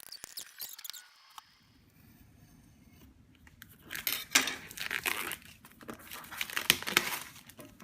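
Product box and its packaging being torn open by hand: a few light clicks at first, then from about four seconds in a busy run of crinkling and ripping.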